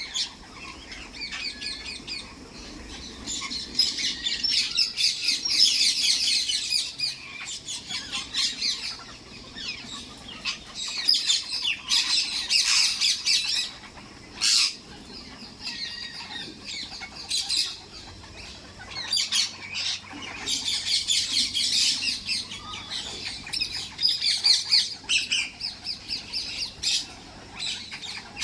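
Pet parrots chattering and squawking in bouts of rapid, high chirps, with one sharp, loud squawk about halfway through.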